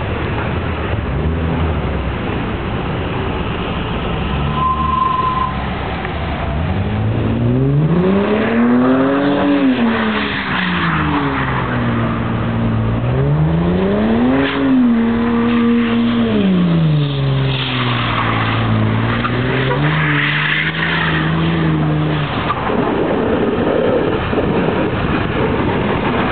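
Lexus IS300 engine revving hard while the car spins donuts in snow: the engine's pitch climbs and falls twice, about a third and halfway in, then is held lower and steady, over the rushing noise of spinning tyres.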